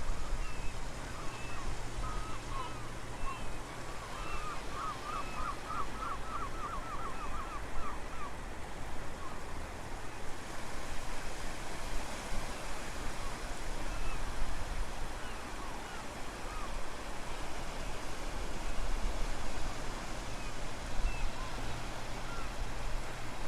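Strong wind buffeting the microphone over the steady hiss of the sea at low tide, with birds calling on and off. A quick run of a dozen or so repeated notes comes about four seconds in.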